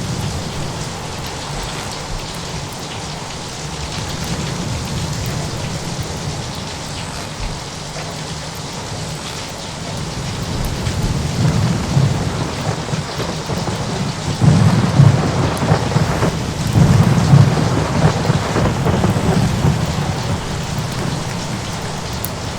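Thunderstorm ambience: steady rain with rumbling thunder that swells about halfway through, is loudest over the next several seconds, then eases off.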